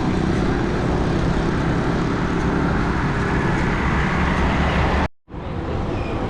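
Steady city road traffic and road noise heard from a moving bicycle. The sound cuts out abruptly for a moment about five seconds in.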